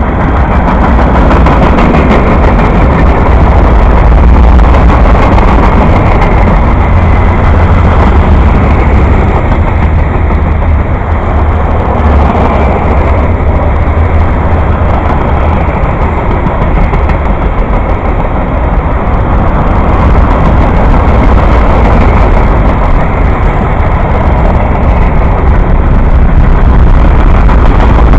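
Freight train of covered hopper cars rolling past close by: a loud, steady rumble of steel wheels on the rails.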